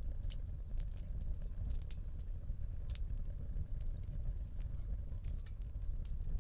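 Wood fire burning in a fireplace: irregular sharp crackles and pops over a steady low rumble of the flames, with one louder crack about three seconds in.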